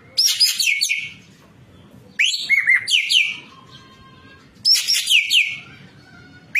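Ekek keling songbird singing: three loud bursts, about two seconds apart, of rapid high whistled notes that each slide sharply downward.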